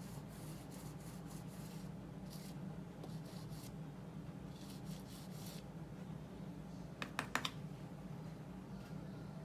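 Paintbrush stroking oil paint onto gessoed multimedia paper in short, faint swishes, with a quick cluster of three or four taps about seven seconds in.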